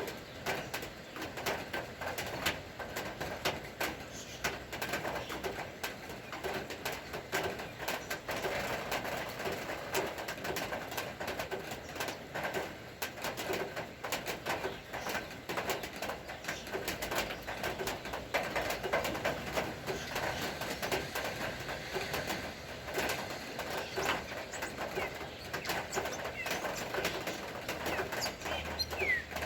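Rain falling, with a steady patter of drops and drips, while a dove coos.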